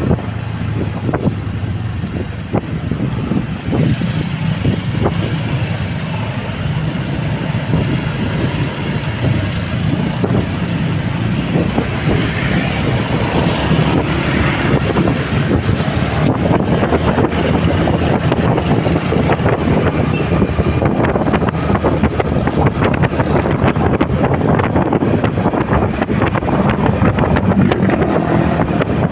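Motorcycle riding in road traffic, its engine and the surrounding vehicles heard under wind rushing over the microphone, steady throughout.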